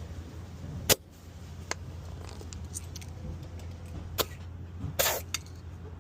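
Truck engine idling steadily, with several sharp metallic clicks and one short burst of air hiss about five seconds in: the chuck of a repaired truck tire inflator hose being worked onto a tire valve.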